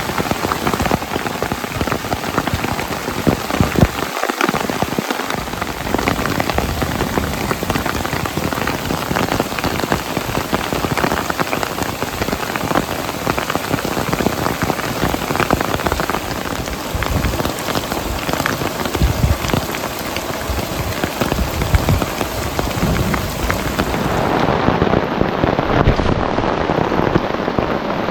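Heavy storm rain beating down in a dense, continuous patter of drops on a surface, loud and unbroken.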